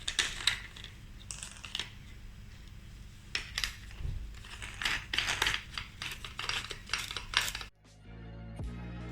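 Sharp metallic clicks and clinks of an angle grinder's fibre disc and backing pad being changed over by hand. About three-quarters of the way through the sound cuts out and background music begins.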